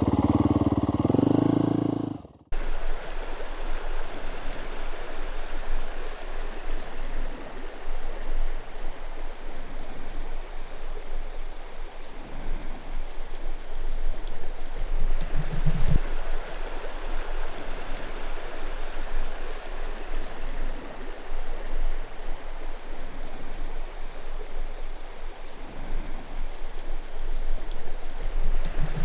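Dirt bike engine running for about two seconds, then a cut to the steady rush of a flowing stream.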